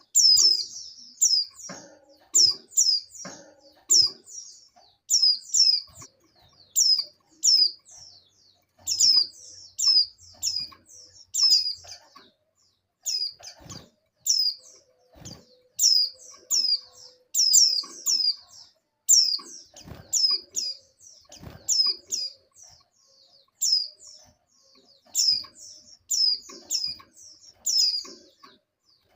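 White-eyes (pleci) calling: short, high, downward-sliding chirps in quick clusters of two to four, repeated about once a second. This is the call of female white-eyes in breeding condition, used to lure males into calling.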